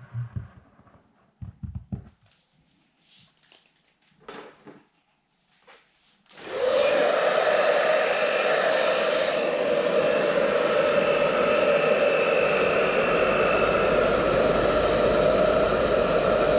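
A few soft handling knocks and rustles, then a small electric motor switches on about six seconds in and runs with a steady whir.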